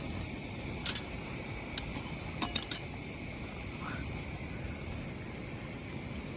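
A few sharp, light clicks over a steady background rush. One click comes about a second in, another near two seconds, then a quick run of three around two and a half seconds.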